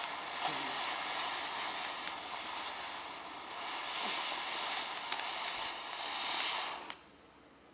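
Small firework fountain hissing steadily as it sprays sparks, with a few faint crackles, then burning out and cutting off suddenly about seven seconds in.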